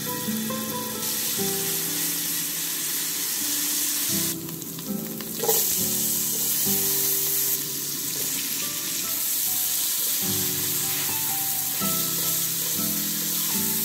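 Garlic paste and oil frying in an aluminium pan, a steady sizzle, with a sharp spike about five and a half seconds in as diced calabresa sausage is tipped in. Sliced onion is then stirred through with a silicone spatula.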